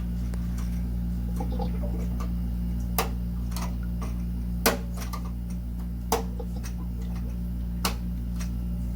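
Small sharp clicks and taps of wires and terminal parts being handled while an electric water heater is rewired: four clear clicks a second or two apart, the loudest about halfway through, and a few fainter ticks, over a steady low hum.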